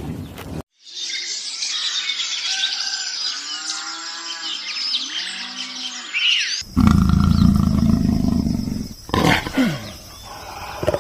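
Animal calls across two clips: about six seconds of many short, high chirping calls, then a sudden cut to louder, lower calls with a falling call near the end.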